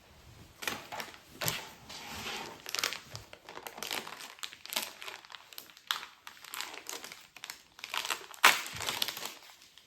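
A mini Monster Jam truck's blind-bag packaging crinkling and crackling as it is torn open by hand, with one sharper, louder crackle near the end.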